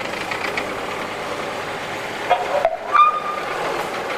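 Two short toots about half a second apart, the second higher-pitched, over the steady running of engines.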